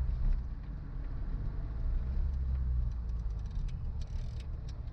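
Suzuki Jimny driving on a rough forest road: a steady low engine and road rumble, with scattered small clicks and rattles starting about three and a half seconds in.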